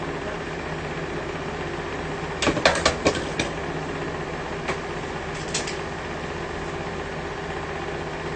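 Steady mechanical hum with a few steady tones in it. About two and a half seconds in comes a quick run of sharp clicks lasting about a second, followed by two single clicks a little later.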